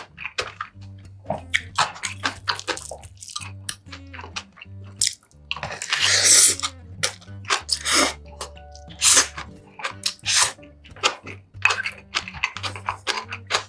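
Close-miked eating sounds: chewing and crunchy bites with wet mouth clicks, and one louder wet noise lasting about a second just past the middle, over soft background music.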